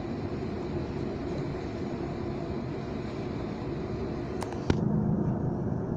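Heathrow Connect Class 360 electric train running at speed, heard from inside the carriage: a steady rumble of wheels on track with motor hum. About three-quarters of the way through there is a sharp click, after which the low hum gets louder and the hiss fades.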